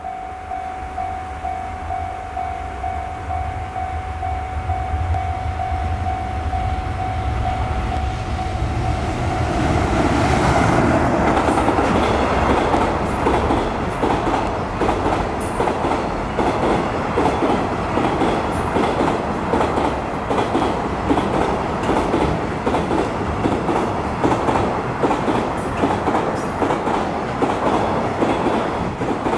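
JR Freight EF210 DC electric locomotive hauling a container freight train past a level crossing. A low rumble builds under a steady level-crossing warning tone. About ten seconds in, the train arrives and the container wagons clatter over the rail joints in a rapid, continuous clickety-clack.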